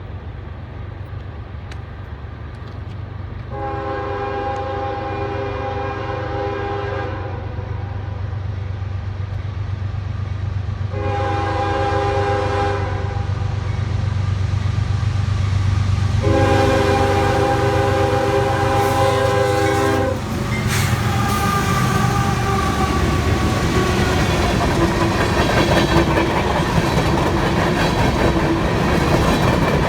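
Freight diesel locomotive's air horn sounding three long chord blasts for a grade crossing over the steady drone of the approaching engines. Then the locomotives pass and the train's wheels rumble and clack over the rails.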